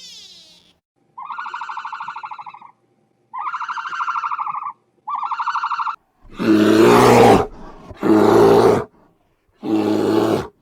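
Wild animal calls: three buzzy, rapidly pulsed calls, then three loud roar-like calls, each about a second long.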